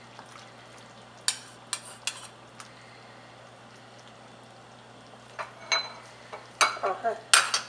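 A utensil clinking and knocking against a cooking pot of curry soup, in scattered sharp clinks: a few about a second in, then a busier run near the end.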